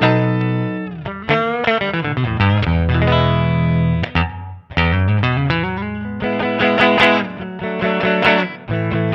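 Fender Stratocaster electric guitar played through a Nux MG300 amp-modelling processor: a lead phrase of picked notes with pitch slides and held notes, with a brief break about four and a half seconds in.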